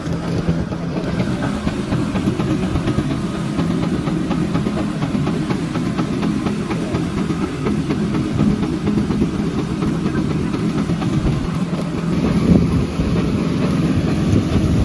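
Diesel engine of a concrete truck running steadily, a continuous low rumble with a steady low hum.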